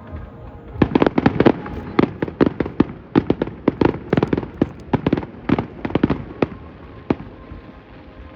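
Aerial fireworks bursting: a rapid volley of sharp bangs and cracks starting about a second in, then spaced-out bursts, ending with one last bang near the end.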